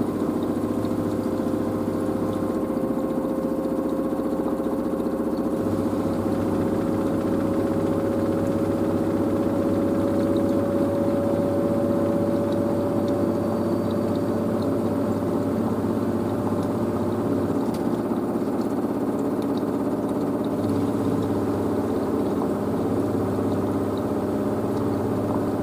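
LG DirectDrive F1496AD washer dryer running mid-cycle, a steady machine hum with a clear motor whine that rises slowly in pitch as the drum gathers speed.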